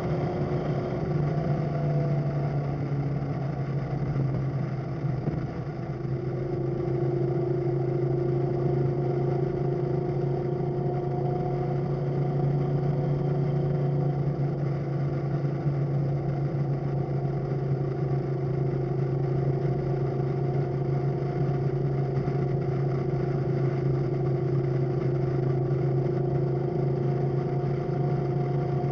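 Suburban's big-block V8 engine running steadily under way, a steady drone that eases off briefly about five seconds in and then holds again.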